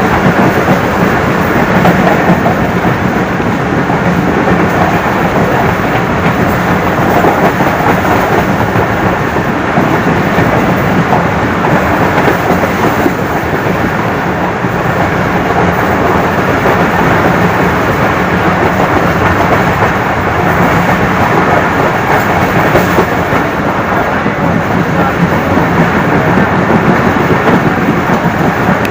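Passenger express train running through at speed without stopping: a loud, steady rumble of the carriages on the rails.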